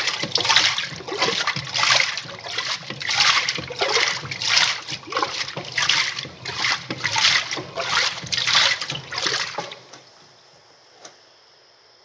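Semi-automatic 'faz tudo' washing machine agitating a load: water sloshes in rhythmic surges, about one and a half a second, as the agitator swings back and forth. The agitation stops about ten seconds in, leaving a faint steady hum and a single click.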